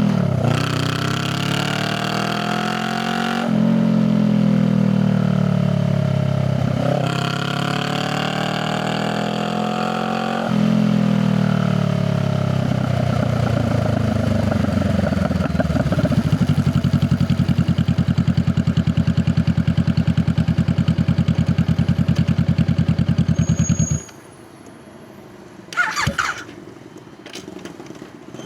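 Honda Rebel 500's parallel-twin engine through its exhaust: it pulls up through the gears with three rising runs, each cut by a gear change, then eases off and runs at a steady, strongly pulsing beat. It cuts out abruptly about 24 seconds in, followed by a few short clicks and a brief rattle.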